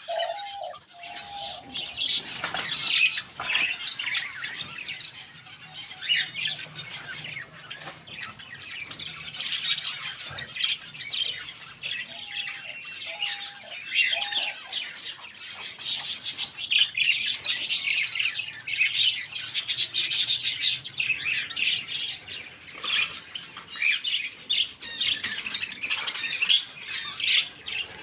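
Many small aviary birds chirping and squawking together in a constant overlapping chatter, with wings fluttering now and then.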